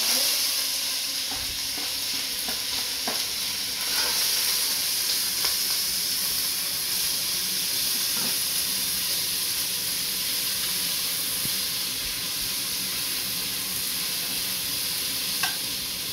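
Chopped onions, shallot, pepper and herbs frying in hot oil in an enamelled pot, making a steady sizzle, with a spoon stirring and scraping the pot now and then.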